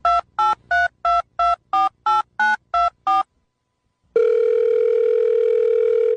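Telephone keypad tones: ten quick two-note beeps, about three a second, as a number is dialled. About four seconds in, a steady telephone line tone starts and holds.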